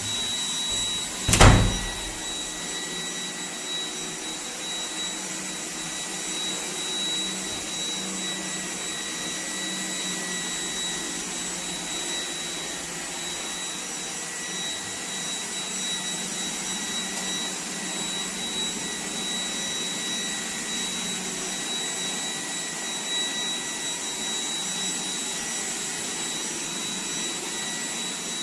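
iRobot Roomba 105 Combo robot vacuum running, a steady whir with a thin high whine. A single sharp knock comes about a second and a half in.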